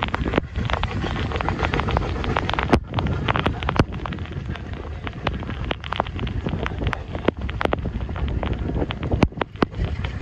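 Passenger train coach running on the track, heard from an open doorway in heavy rain: a steady rumble of wheels on rails with wind buffeting the microphone, broken by many sharp, irregular clicks and knocks.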